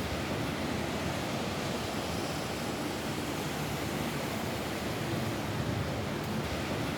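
Rain falling steadily on a roof, an even hiss with no distinct drops standing out.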